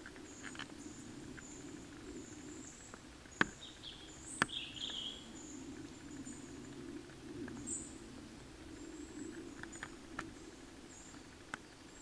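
Quiet woodland birdsong: thin, high chirps repeating every second or so, with one lower call about four seconds in. A few sharp clicks stand out, over a low steady hum.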